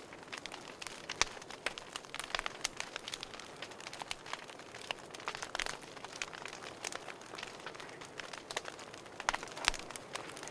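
Wood fire crackling in a fireplace: irregular snaps and pops over a soft hiss of burning, with a few louder pops about halfway through and near the end.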